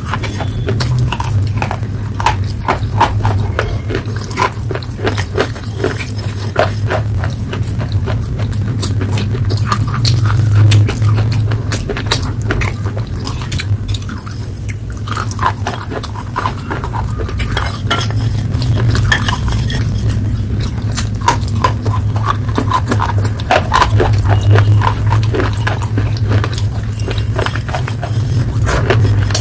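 Close-miked ASMR crackling and clicking of slate pencil paste, a dense run of irregular small crunches over a steady low hum.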